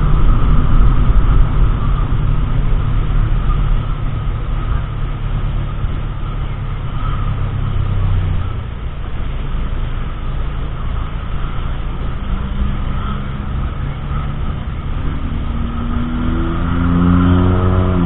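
Car driving: steady engine and road rumble, with the engine pitch climbing over the last several seconds as it accelerates.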